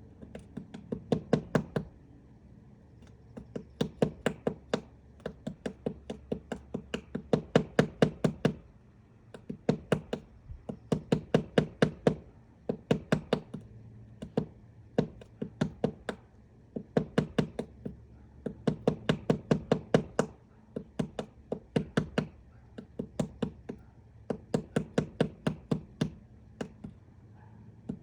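Woodpecker pecking into wood to dig out its nest hole: quick runs of sharp knocks, about eight a second, broken by short pauses.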